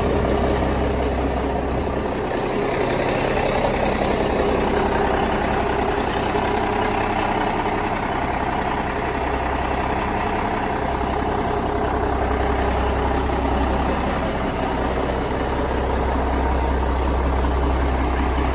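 Big-rig truck engine idling steadily.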